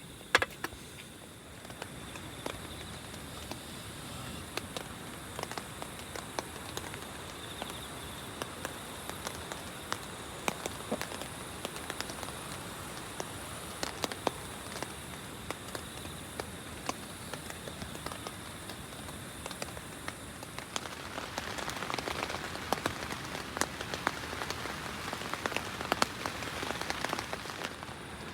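Rain falling, with many individual drops landing as sharp ticks over a steady patter. It grows heavier for a few seconds about two-thirds of the way through.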